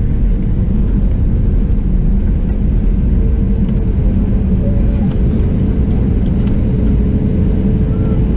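Steady low rumble of cabin noise inside an Airbus A320neo with its CFM LEAP-1A engines running, with a faint steady hum and a few light ticks over it.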